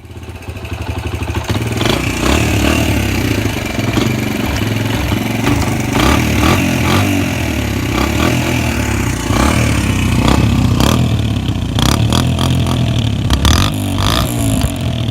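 Small dirt-bike engine running and revving unevenly, with clattering knocks throughout. The engine is cold and not yet warmed up.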